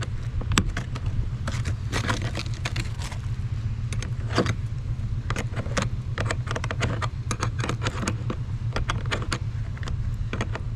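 Metal clinking and rattling as hand tools such as a wrench are handled, in many irregular sharp clicks. A steady low rumble runs underneath.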